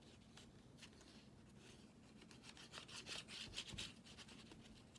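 Faint rubbing and rasping on paper as glue is smeared over a paper piece, the strokes coming thicker and a little louder from about two and a half to four seconds in.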